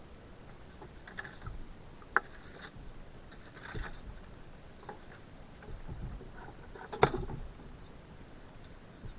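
Kayak paddling on the water: scattered paddle dips and drips, with a sharp click about two seconds in and a louder knock against the hull about seven seconds in.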